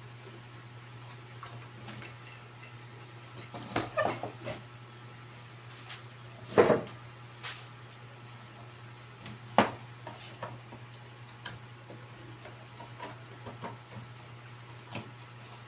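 Handling noises as a repaired circuit board is fitted back into its plastic housing: scattered clicks and knocks, a cluster about four seconds in and the two sharpest a little later, over a steady low hum.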